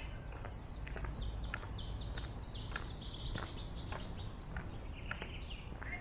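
A songbird singing a quick run of about a dozen high notes, each falling in pitch, running into a lower, steadier trill. Footsteps on paving at walking pace and a low steady rumble lie underneath.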